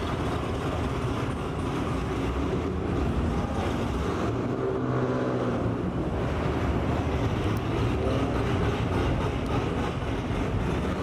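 Steady vehicle rumble of car engine and road noise, with a pitched engine hum swelling for a few seconds around the middle.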